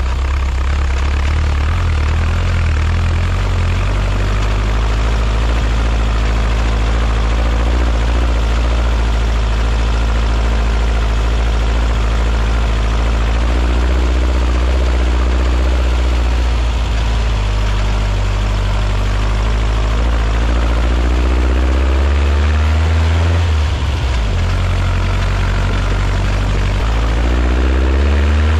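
Air-cooled VW flat-four, a 1968cc stroker on dual 40 IDF carburetors, driving a Baja Bug slowly over rough ground. Its note climbs several times as it accelerates, drops briefly about 23 seconds in, then climbs again near the end.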